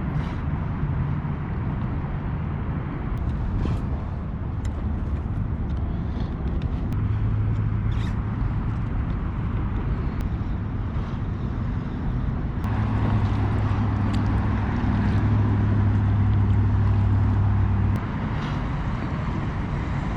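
Steady low hum of a boat motor over a rumbling water-and-wind haze, with scattered faint clicks. The hum grows louder about halfway through and drops away suddenly near the end.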